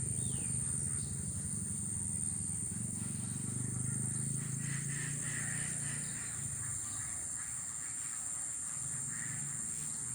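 Outdoor nature ambience: a steady high-pitched insect drone with scattered bird chirps over a low, steady rumble.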